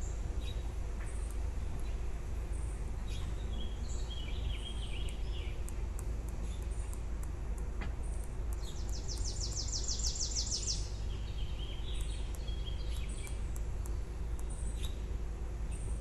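Small birds chirping in short high calls, with a fast, high trill lasting about two seconds near the middle, over a steady low rumble.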